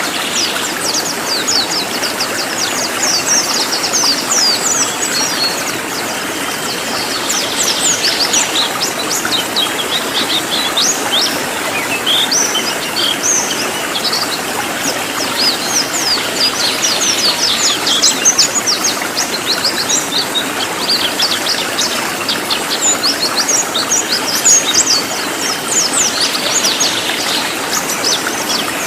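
Cililin birds singing in a dense, rapid chatter of short high chirps, over a steady hiss.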